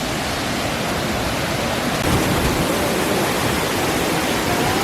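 Waterfall rushing: a steady noise of water pouring over and between rocks, a little louder from about two seconds in.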